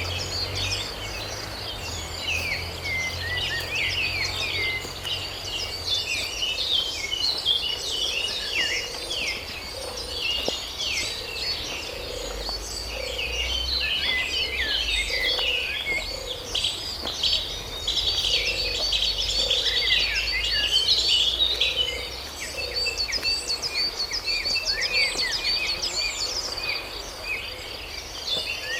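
A dense chorus of many small birds chirping and calling over one another, over a steady high-pitched insect drone.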